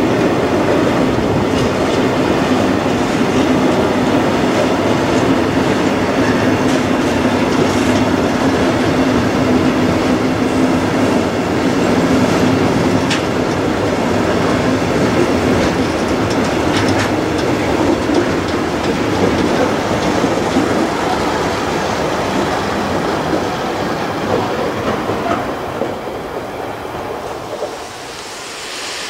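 A heavy intermodal freight train's wagons rolling past slowly: a steady rumble of steel wheels on rail with occasional clicks at rail joints. It fades out near the end.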